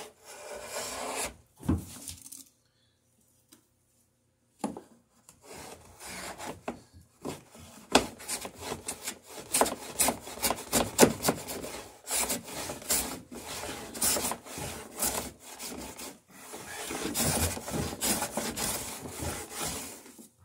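Repeated strokes of a hand cutting tool shaving along the edge of a wooden boat rail, its blade scraping and cutting wood. There is a pause of about two seconds near the start, then steady back-and-forth strokes.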